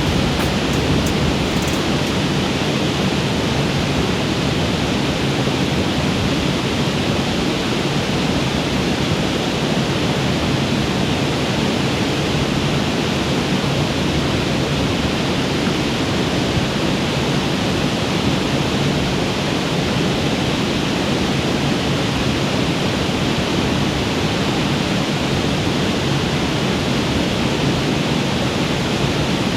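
Creek waterfall: a steady, even rush of falling water.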